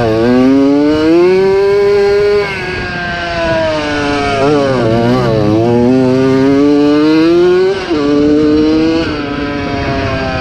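1987 Yamaha YZ80 two-stroke motocross engine revving hard, its pitch climbing then dropping sharply as the rider shifts or rolls off the throttle, several times over.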